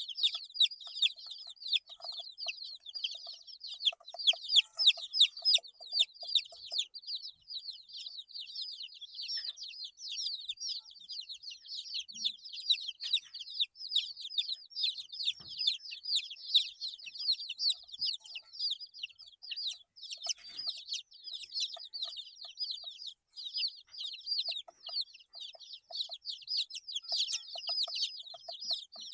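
A group of eight-day-old chicks peeping continuously, many short high-pitched cheeps overlapping, with a lower repeated note joining in during the first few seconds and again in the last third.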